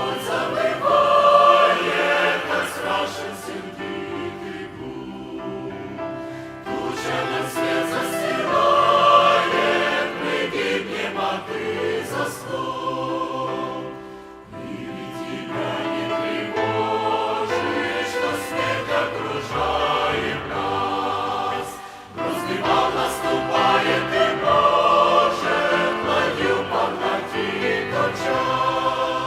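A choir singing a Christian hymn in long sustained phrases, with short breaks between phrases.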